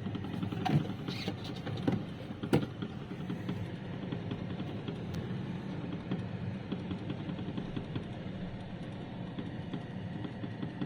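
The fan of an Atlant XM 4425-009 ND refrigerator is running with a fast, steady rattling knock, and a few louder knocks come in the first few seconds. The owner blames the knocking on the fan's own airflow bouncing back off the cover over it; with the cover off, the fan runs silently.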